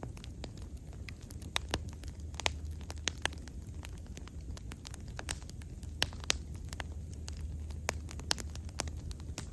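Bonfire burning, with irregular sharp crackles and pops from the burning wood over a low, steady rumble of the flames.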